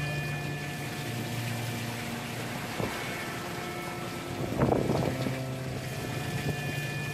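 A boat's engine running, with water and wind noise, under background music of sustained chords that change every second or two. A short splash-like rush comes about four and a half seconds in.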